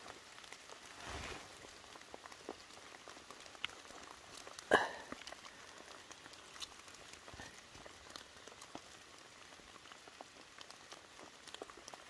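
Steady rain on the wet forest floor, heard as a faint hiss with many scattered raindrop ticks. One sharp knock, much louder than the drops, about five seconds in.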